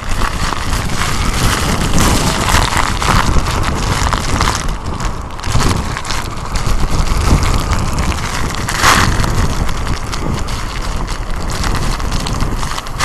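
Typhoon-strength wind blowing hard in gusts and buffeting the microphone: a loud, constant rushing that swells and eases from second to second, with heavy low rumble from the wind hitting the mic.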